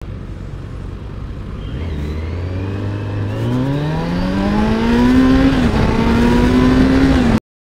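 Kawasaki Z900's inline-four engine accelerating hard under full throttle: low, steady revs for the first few seconds, then a steadily rising engine note with a brief dip about two-thirds of the way through before it climbs again. The sound cuts off suddenly near the end.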